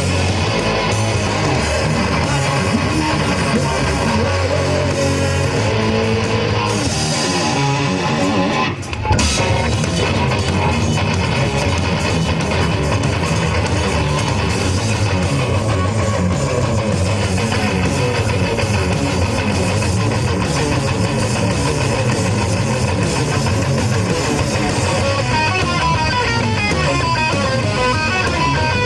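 Live rock band playing loud, with distorted electric guitars, bass and drum kit, and a brief break in the music about nine seconds in.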